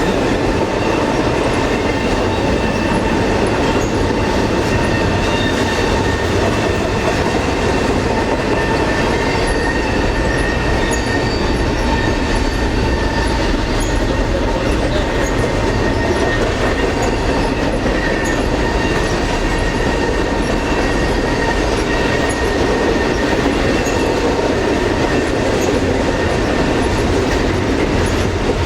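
Double-stack container freight train rolling steadily past, loud wheel and rail noise with a faint, thin, steady high-pitched squeal from the wheels.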